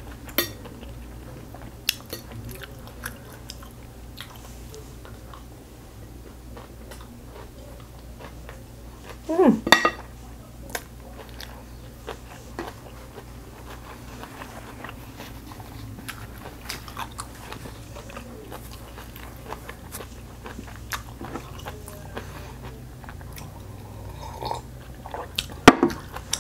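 Close-miked chewing and mouth sounds of someone eating kimchi fried rice, with scattered sharp taps of a wooden spoon and metal chopsticks against a plate. A louder burst comes about nine seconds in and another near the end, over a low steady hum.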